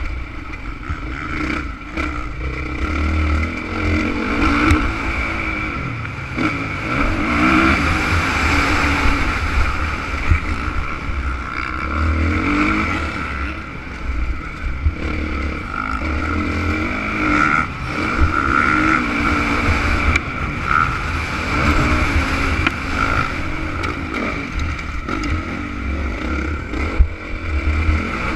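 Honda CRF450 motocross bike's single-cylinder four-stroke engine being ridden hard, revving up and dropping back again and again through gear changes and throttle work.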